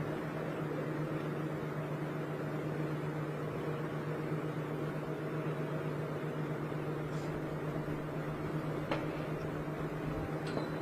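A steady low hum with an even hiss over it, like a small motor or appliance running, with a faint click about nine seconds in.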